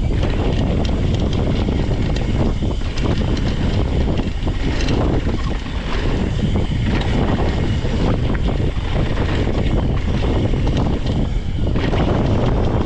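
Wind buffeting the microphone and tyres rushing over a dirt trail as a mountain bike descends at speed, with frequent rattles and clatters from the bike over the bumps.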